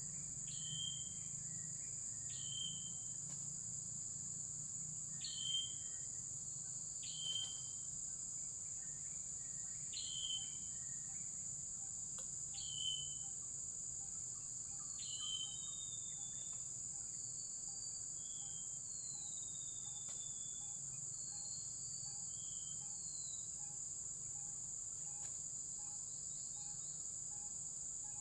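Steady high-pitched insect chorus, with a bird giving a short, sharp downward-slurred call about every two seconds for the first half, then a few softer gliding calls.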